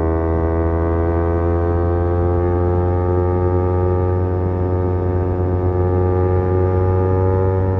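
Kawasaki Z250 motorcycle engine running through a SeaPro aftermarket muffler, pulling in gear under steady throttle. Its note climbs slowly and smoothly as the bike gathers speed.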